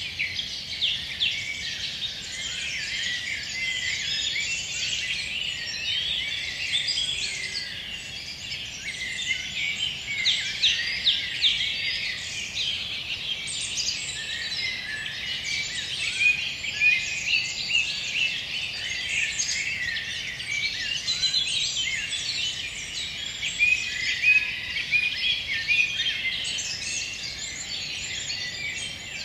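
Many songbirds singing at once in a dense evening chorus: countless overlapping high chirps and whistled notes, with no pause.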